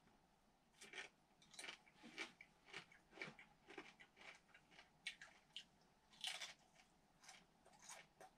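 A person chewing fried bacon: faint, irregular crackly bites, two or three a second, starting about a second in.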